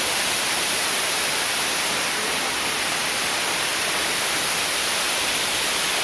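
Waterfall's steady rush of falling water, an even hiss strongest in the high tones.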